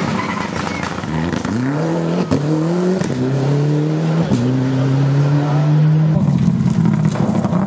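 Rally car accelerating hard through the gears: the engine pitch climbs and drops back at each of three quick upshifts, then holds steady.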